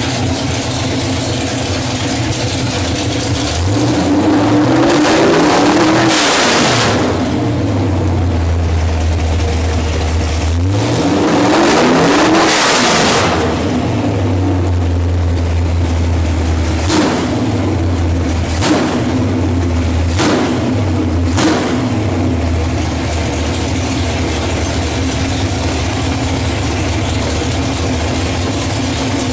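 347 stroker small-block Ford V8 with a four-barrel carburettor idling. It is revved up and back down twice for a few seconds each, then blipped four times about a second and a half apart, and settles back to a steady idle.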